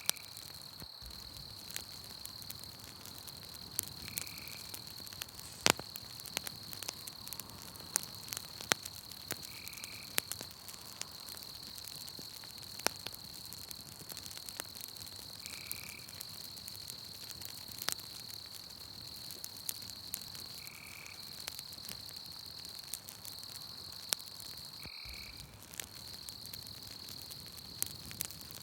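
Campfire crackling with scattered sharp pops, over a steady high insect trill, and a short animal call repeating about every five seconds.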